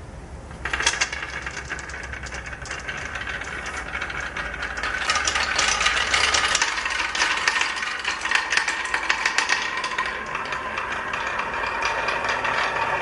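Many marbles rolling and clattering down a wooden marble run: a dense rattle of small clicks that starts about a second in and grows louder.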